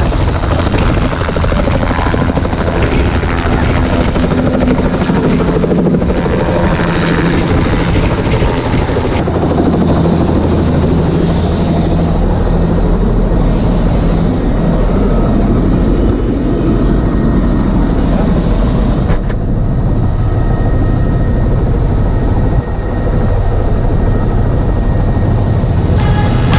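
Helicopter running loud and steady, its rotor and engine filling the sound, with a few sudden shifts in tone along the way.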